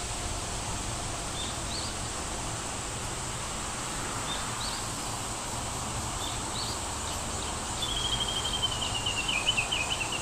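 Small birds chirping now and then over a steady outdoor rush. About eight seconds in, a bird starts a fast run of high notes that slides down in pitch.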